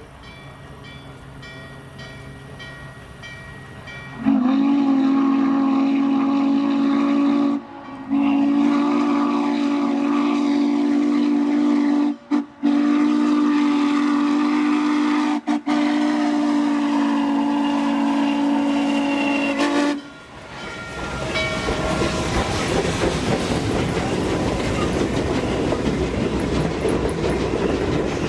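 A faint ringing grade-crossing bell, then a steam locomotive whistle (N&W 611's) blowing the grade-crossing signal: long, long, short, long. The train then rumbles past with wheels clicking over the rail joints.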